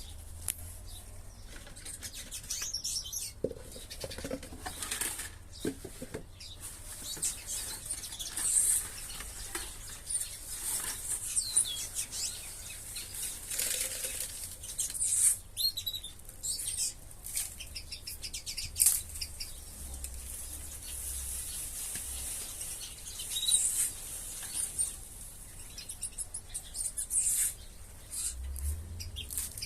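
Ornamental aviary birds chirping in many short high calls, with wings fluttering and scattered sharp clicks.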